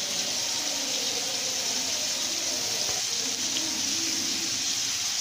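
Chicken, onion and carrot sizzling steadily in hot oil in a pan.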